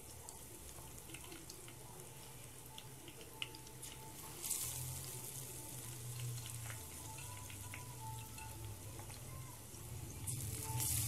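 Eggplant slices coated in gram-flour batter frying in hot oil in a kadhai: a steady, fairly quiet sizzle with scattered small crackles. A low hum grows louder about halfway through.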